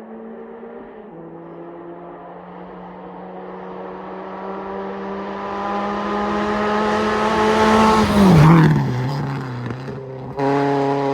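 A naturally aspirated Subaru Impreza 2.5RS rally car's flat-four engine accelerating hard toward the listener, its note climbing and growing louder after a gear change about a second in. It passes close by about 8 s in, with the pitch dropping sharply. Near the end the sound cuts suddenly to a different, steady engine note.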